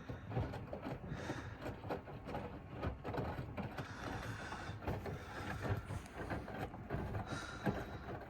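Faint, irregular mechanical clicking and rattling that goes on steadily throughout.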